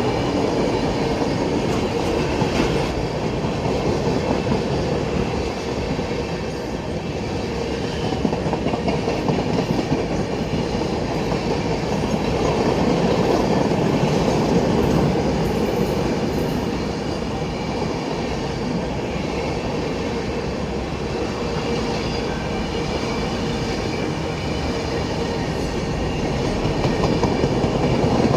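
Express passenger train running at speed, its wheels clattering steadily over the rail joints.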